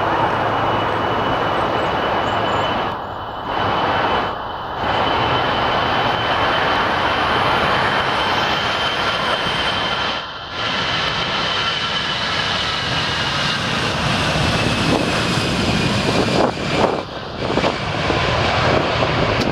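Jet engines of an Airbus A320-family airliner at takeoff power, a loud steady rumble with a high whine that slowly drops in pitch in the second half.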